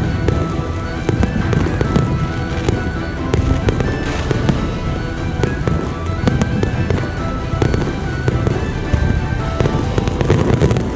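Fireworks going off in quick, irregular succession: many sharp bangs and pops with crackle, mixed with music playing throughout.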